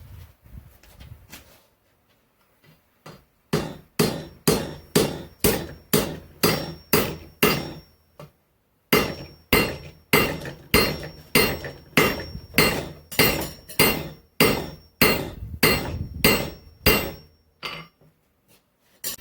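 Blacksmith's hand hammer striking hot steel on an anvil, about two blows a second in two long runs with a short pause between them, and a faint ring from the anvil carrying under the blows.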